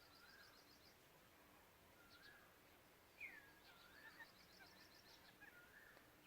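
Faint birdsong from more than one bird: rapid high, ticking trills repeated several times, mixed with warbling whistled phrases that slide up and down, loudest a little past the middle.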